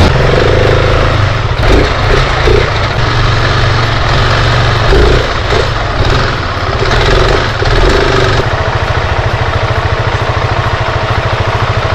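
KTM 690 Enduro R's single-cylinder engine running with revs rising and falling under way, then settling into a steady, even idle for the last few seconds.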